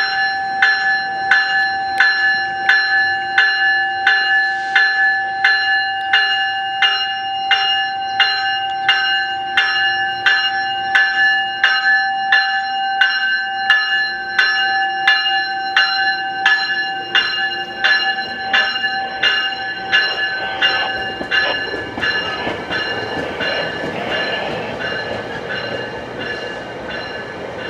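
A railroad bell ringing steadily, about two strikes a second, as a Metrolink commuter train moves through the station. The bell fades out about two-thirds of the way in, leaving the rumble of the train.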